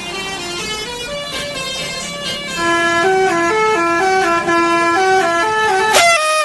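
Basuri telolet bus horn playing a melody of stepped notes, several tones sounding together, getting louder about halfway through. It ends with a quick upward slide just before the end.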